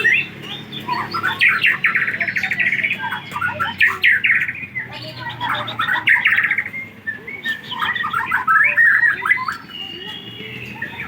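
White-rumped shama (murai batu, Aceh type) singing a varied song: phrases of rapid repeated notes and sliding whistles, coming in bursts with short breaks between them.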